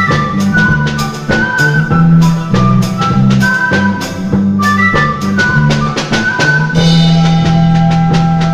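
Andean folk band playing an instrumental passage: a melody over bass notes and a steady drum beat, settling into long held notes near the end.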